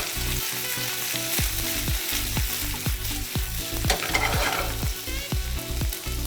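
Finely diced ham frying and sizzling in a hot pan as it is stirred, its fat rendering out.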